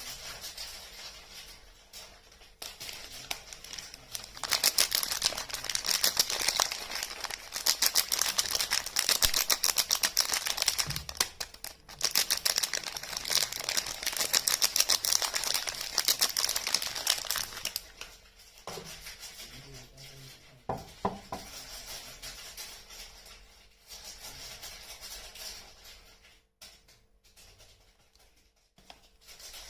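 Soap packaging being handled and unwrapped: dense, rapid crinkling and rustling, loud for most of the first half, then quieter, sparser handling with a few crackles.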